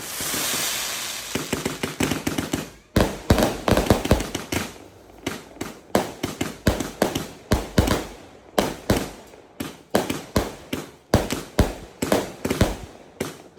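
Firework going off: a loud hissing burst, then a long run of sharp bangs, two to three a second at uneven spacing.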